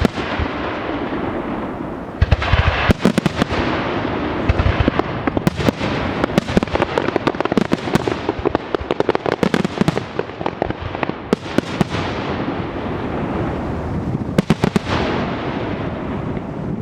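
Fireworks display going off continuously: rapid volleys of sharp bangs and crackling over a constant rumble, with heavier low booms a couple of seconds in and again around four and a half seconds.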